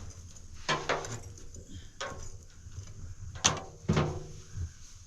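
A series of sharp knocks, four blows about a second or so apart, each with a short ringing tail.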